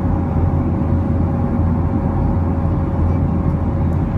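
Steady cabin noise of an airplane in flight: a constant low roar of engines and airflow, with a thin steady hum above it.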